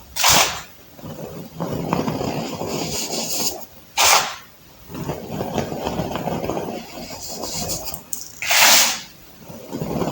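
Crunching of compressed baking soda being crushed: stretches of dense, gritty crunching, broken by three louder, hissy crunches about four seconds apart.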